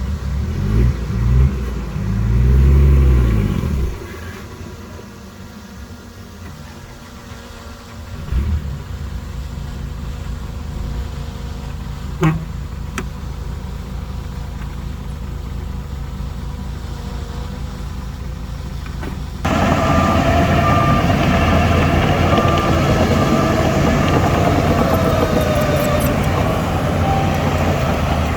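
Shantui DH17C2 bulldozer's diesel engine running as it works, with a few loud low swells in the first four seconds. About twenty seconds in, the sound jumps abruptly louder and stays steady.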